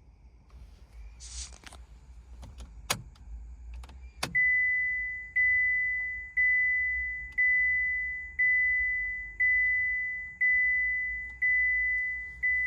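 A few sharp clicks, like a key in the ignition, then the Opel Corsa's dashboard chime pinging steadily about once a second at one high pitch, each ping fading before the next. It sounds while the oil-change service reminder is being reset.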